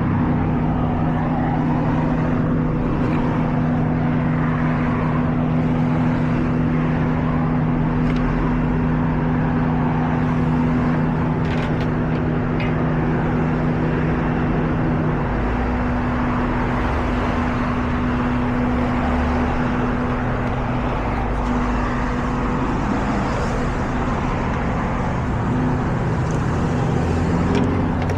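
Tow truck's engine running at a steady speed, a constant drone. One of its tones drops out about halfway through while the rest runs on.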